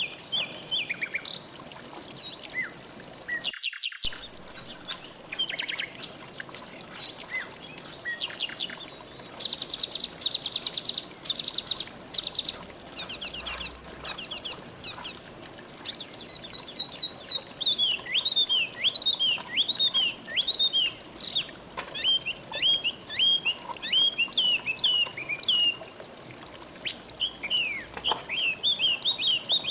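Several songbirds chirping, whistling and trilling over the steady rush of flowing river water. Rapid trills come in the middle, then a long run of quick downslurred chirps. All sound drops out briefly about four seconds in.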